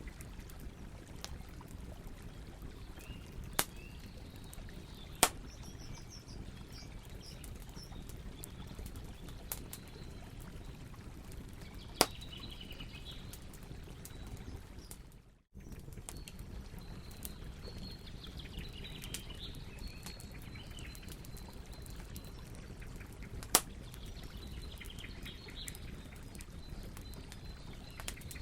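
Campfire burning with a steady low rush and a few sharp crackling pops, while birds chirp faintly in the background. The sound drops out for a moment about halfway through.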